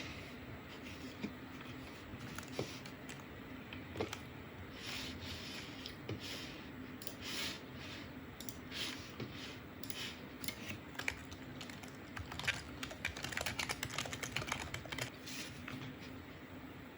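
Quiet kitchen handling sounds: scattered light clicks and scratchy, crackly scraping that thicken into a quick run about three-quarters of the way through, over a steady low hum.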